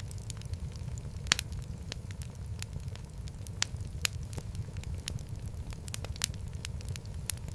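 Wood fire burning in a fireplace: a steady low rumble of flames with frequent sharp crackles and pops, the loudest about a second and a half in and again near four seconds.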